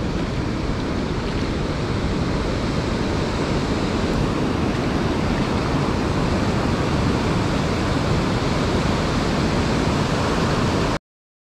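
Steady rushing of wind buffeting the microphone over lake water, with a heavy low rumble. It cuts off suddenly near the end.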